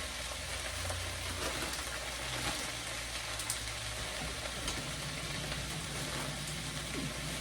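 Chopped cabbage and browned sausage sizzling steadily in a frying pan, with a few faint clicks.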